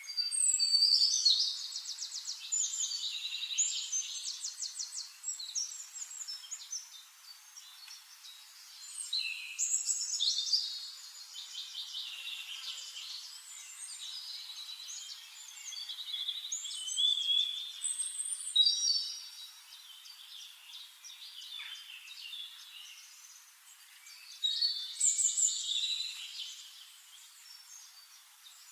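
Songbirds singing in bursts of fast, high trills and chirps, several phrases with short lulls between them, over a faint steady hiss.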